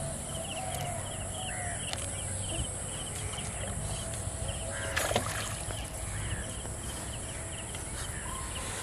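Birds, likely village poultry, calling in short arched calls over a steady high-pitched hiss, with rows of quick repeated chirps and one sharp knock about five seconds in.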